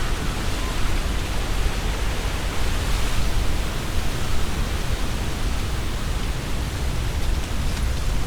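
Strong wind gusting through trees, the leaves rustling in a steady hiss, with a low rumble of wind on the microphones that swells and eases with the gusts.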